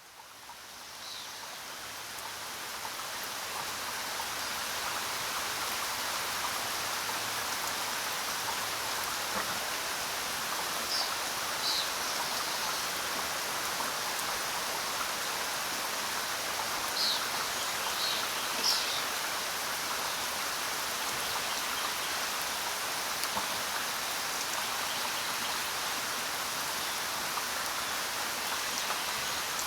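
Steady rain falling on the ground, fading in over the first few seconds and then holding an even hiss. A few brief high chirps stand out near the middle.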